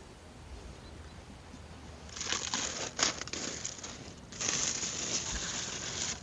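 Crinkling and rustling in two stretches of about two seconds each, with a few sharp clicks, after a quiet start.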